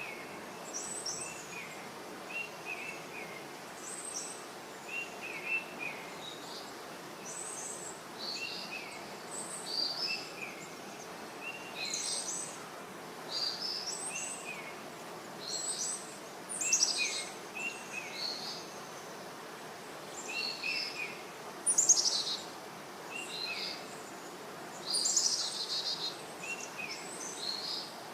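Small birds chirping and calling: short two-part calls repeated every second or two, with higher, sharper chirps between them, over a steady background hiss. The loudest chirps come about two-thirds of the way through and again near the end.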